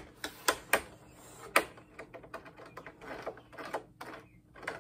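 Sharp clicks and knocks of hard parts being wrenched at, three loud ones in the first second and a half, then softer clicking and scraping. A stuck, glued-in part is being twisted and pulled during a monitor teardown.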